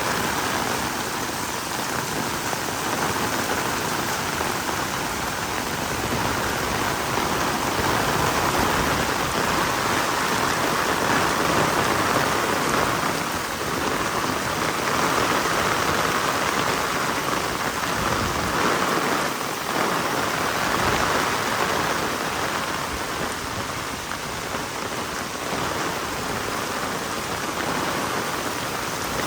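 Heavy rain falling steadily, a dense, even hiss that swells and eases a little over time.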